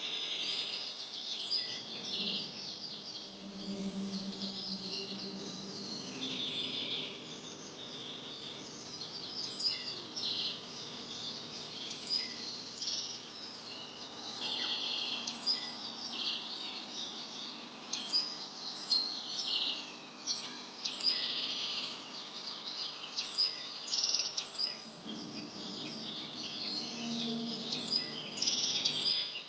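Many birds chirping and calling at once, a busy chorus of short high chirps. Under it, a low drawn-out tone comes in twice, early and again near the end.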